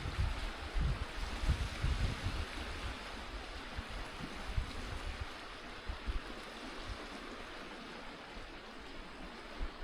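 Steady wash of Lake Michigan waves on the shore. Wind buffets the microphone with low rumbling gusts during the first few seconds, then eases off.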